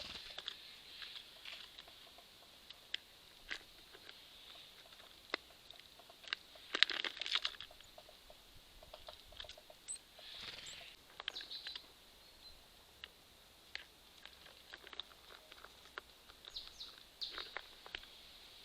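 Small birds such as tits and nuthatches at a squirrel feeder: scattered sharp taps and clicks of pecking at seeds and hopping about, with a louder rustling flurry about seven seconds in and a few short high chirps.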